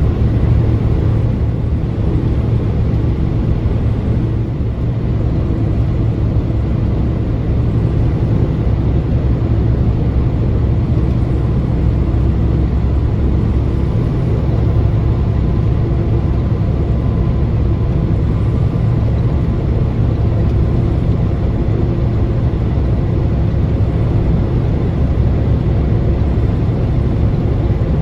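Vehicle driving at steady speed: a constant low engine and road rumble that holds even throughout.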